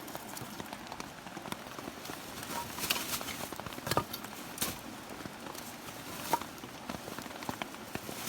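Light rain falling steadily on the forest, with a few sharp knocks and clicks scattered through it, the loudest about four seconds in.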